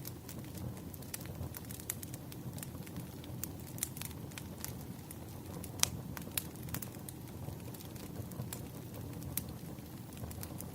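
Wood fire burning with a low steady rumble and irregular sharp crackles and pops, one louder pop a little under six seconds in.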